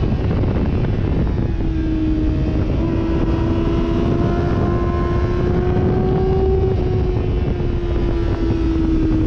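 Sportbike engine running at a nearly steady speed, its pitch creeping up slightly and then easing back down, over a low rush of wind noise.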